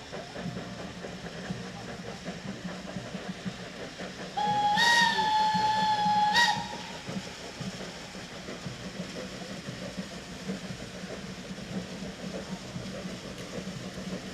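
Steam locomotive whistle giving one steady blast of about two seconds, a little under halfway through, over a steady background hiss.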